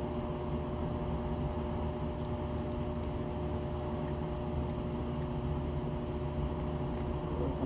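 A steady mechanical hum with a few constant tones over an even rushing noise, unchanging throughout.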